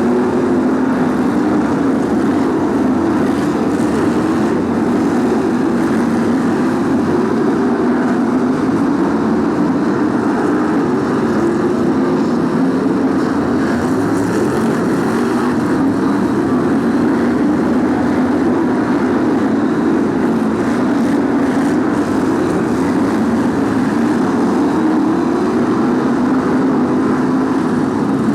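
A pack of BRISCA F1 stock cars with V8 engines running together around the oval in a loud, steady din, the engine note slowly rising and falling as the cars go round.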